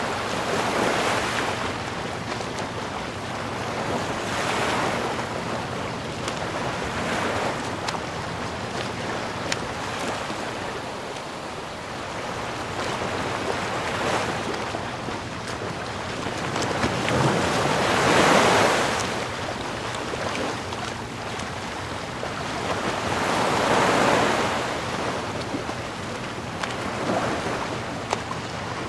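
Sea waves washing ashore in slow swells every few seconds, with steady surf noise between them; the biggest wave breaks a little past the middle.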